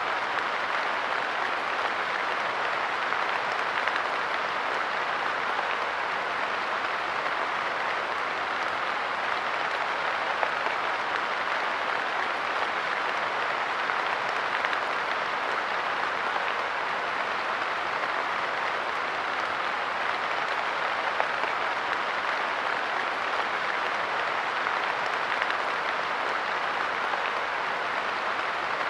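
Steady light rain falling on a park bench: a dense, even hiss of drops, with a few slightly louder drop hits now and then.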